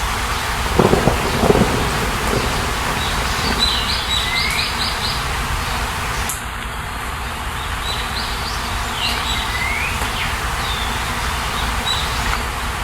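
Small birds chirping and calling in short rising and falling notes over a steady rushing background of rain or running water. Two low swells sound about a second in.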